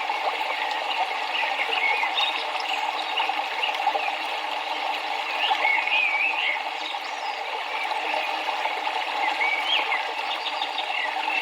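River water flowing steadily, with birds chirping in short, wavering phrases a few times over it.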